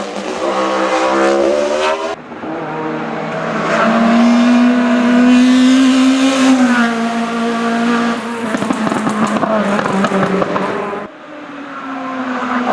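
Race car engines at high revs, the pitch rising and dropping with throttle and gear changes, with some tyre squeal. The sound cuts abruptly from one car to another about two seconds in and again near the end.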